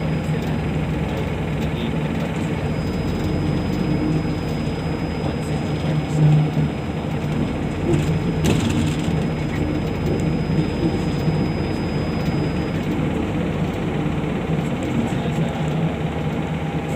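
Steady engine and road noise heard inside a moving vehicle, with a brief louder swell about six seconds in and a short click a little later.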